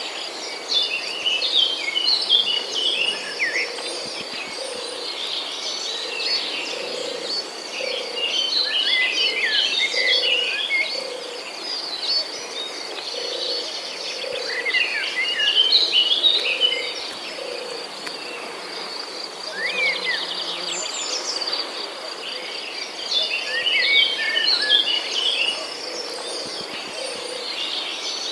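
Songbirds singing in bursts of quick chirping phrases every several seconds over a steady high insect trill, with a soft low call pulsing about once a second underneath.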